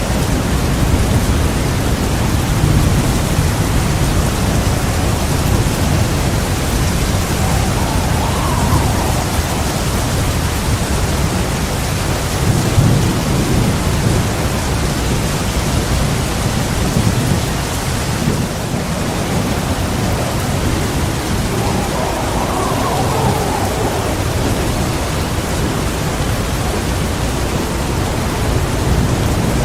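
Heavy rain falling steadily, with thunder rumbling low several times, the strongest roll about thirteen seconds in.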